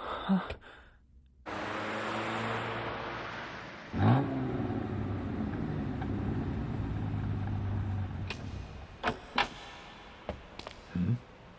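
Car engine running steadily, with a loud swell about four seconds in, then fading away; a few short sharp knocks follow near the end.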